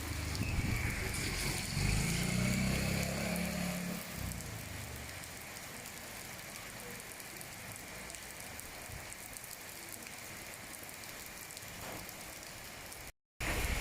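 Steady rain falling, an even hiss throughout, with a low rumble in the first four seconds. The sound cuts out completely for a moment near the end.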